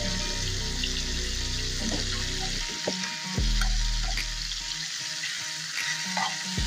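Chicken pieces frying in butter and oil in a pan, a steady sizzle with a few short sharp pops or clicks.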